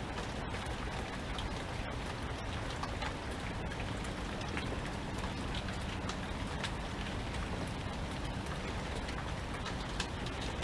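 Steady rain, with many separate drops ticking irregularly on a hard surface.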